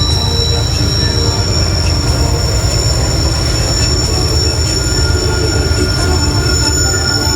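Train rolling past with steady high-pitched wheel squeal over a low rumble.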